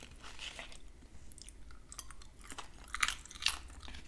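Close-miked chewing and wet mouth sounds from eating baked salmon, with scattered soft clicks and two sharper clicks near the end.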